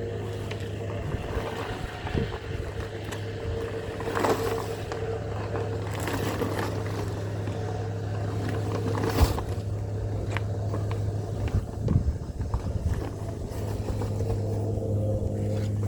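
A steady low motor hum, with a few short knocks or scrapes about 4, 9 and 12 seconds in.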